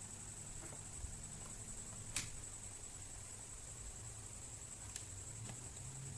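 A few sharp, faint plastic clicks over a steady low hum, the clearest about two seconds in: the laptop's battery latch being slid and the battery being taken out.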